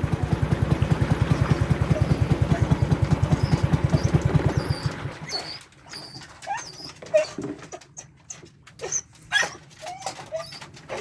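A boat engine running with a steady low pulse, which cuts off about halfway through. After it stops, a dog whimpers in short high whines among a few small knocks.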